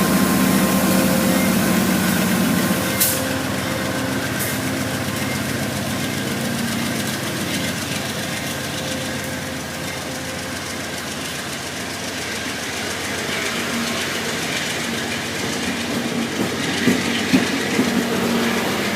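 A train running on the rails with steady rolling noise; an engine note eases off about three seconds in, and two sharp clicks follow soon after.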